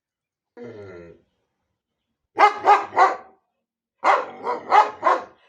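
A dog barking: a short, quieter call, then a quick run of three loud barks and, after a brief pause, another run of four.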